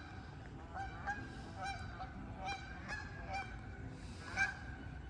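Geese honking: a string of short, repeated honks, one louder call near the end.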